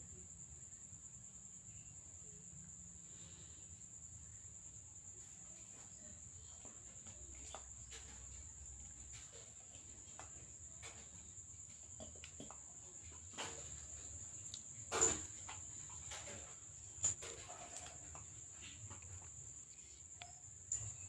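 A cricket chirping in one steady, unbroken high-pitched trill, with scattered small clicks and knocks; the loudest knocks come about 15 and 17 seconds in.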